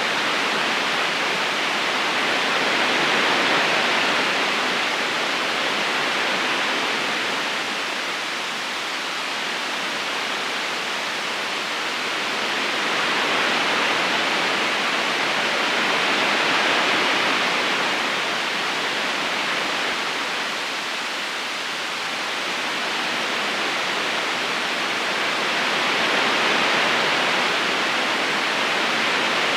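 River current rushing and babbling steadily, slowly swelling and easing a few times.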